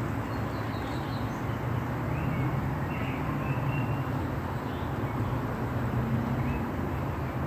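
Light rain falling as a steady hiss, over a low steady rumble. A few short, high chirps come in the first half.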